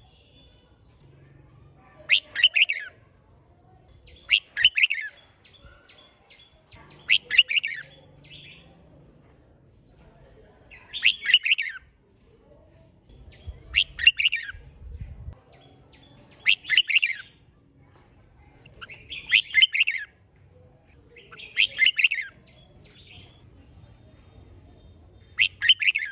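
Red-whiskered bulbul singing short, loud, chattering song phrases, each about half a second long, repeated about every two to three seconds.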